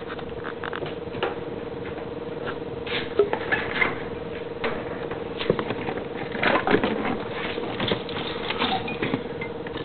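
Electric fuel pump of a swapped RB20DET running with the key on, a steady whine, with scattered light clicks and taps; the engine does not fire, the no-start the owner is chasing.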